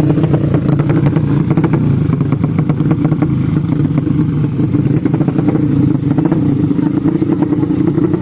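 Drag-racing motorcycle engine running at a steady speed, with a rapid crackle of clicks over it for the first few seconds.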